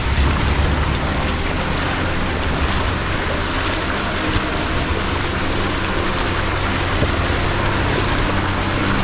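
Jeep Gladiator's engine running steadily at low revs as it crawls up a steep, rocky trail in four-low, under a steady hiss.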